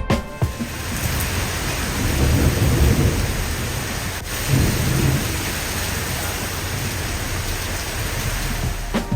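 Rain falling steadily, with low rumbles of thunder about two seconds in and again around the middle.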